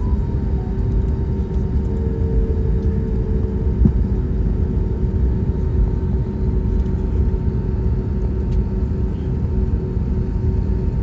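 Cabin noise inside an Airbus A320neo with CFM LEAP-1A engines running: a steady low rumble with a constant hum.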